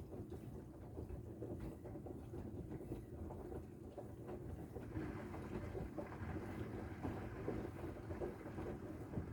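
Bosch front-loading washing machine drum turning in one direction under a full load, with a steady motor and drum rumble and the laundry tumbling and pattering, getting louder about halfway through. The rattle heard when the drum reverses is not in this stretch.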